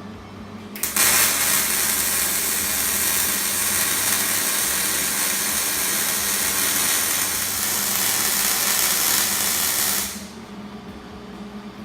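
Hobart 300-amp MIG welder laying a weld bead: the arc strikes about a second in, sizzles steadily for about nine seconds, then stops abruptly.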